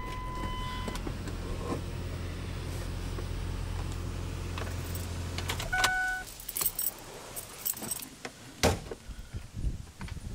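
A steady low hum of the truck running cuts off about six seconds in, just after a short electronic chime, as the truck is switched off; a similar short beep sounds at the start. Keys then jangle and click, with a sharp knock near nine seconds.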